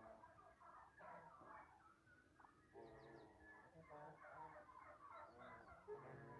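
Faint, continuous, overlapping calls of domestic fowl, several birds at once.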